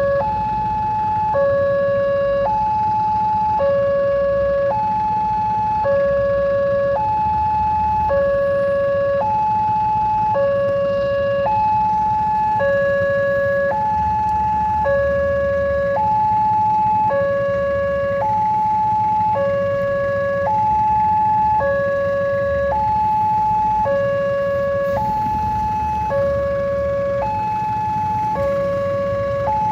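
Railway level-crossing warning alarm sounding continuously: an electronic two-tone signal alternating a higher and a lower note, each held about a second, which warns that a train is approaching. A low rumble of road traffic runs underneath.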